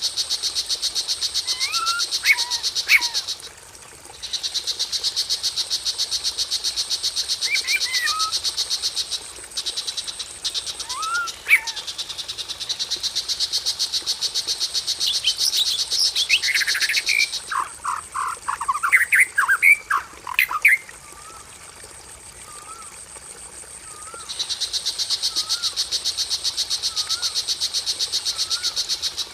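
Cage-bird lure and tutor recording: a loud, high, fast-pulsing trill runs for several seconds at a time and drops out twice. Short gliding bird whistles come in the pauses, and a burst of quick, varied songbird notes sits in the middle.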